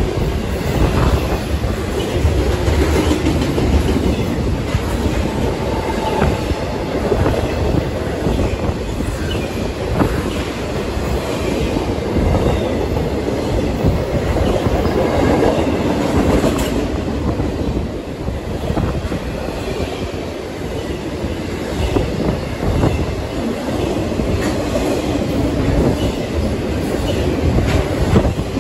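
Intermodal freight cars loaded with truck trailers rolling past at speed close by: a loud, steady rumble of steel wheels on rail, with repeated clicks as the wheels cross rail joints.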